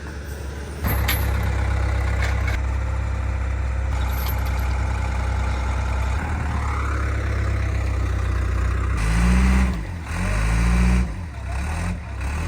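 Diesel engine of heavy recovery equipment running, stepping up about a second in and then revving up and down several times near the end as it works under load.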